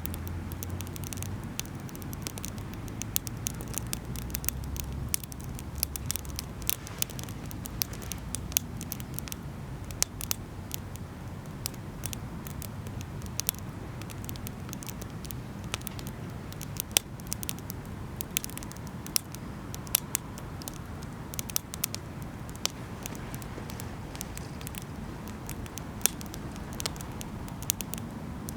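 Wood campfire crackling, with irregular sharp pops, a few much louder than the rest, over a low steady rumble that is heavier for the first few seconds.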